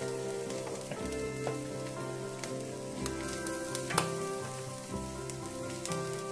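Chopped ginger and garlic, with a fried egg beside them, sizzling in hot oil in a stainless-steel frying pan. A steady sizzle with scattered sharp pops, the loudest about four seconds in.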